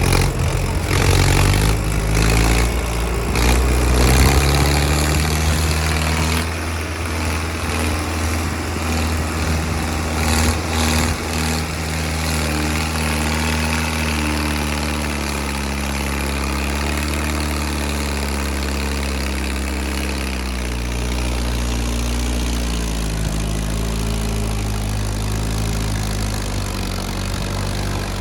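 Mahindra Arjun 555 DI tractor's four-cylinder diesel engine pulling under load up a climb, its pitch rising and falling slowly. Knocks and rattles come and go in the first dozen seconds.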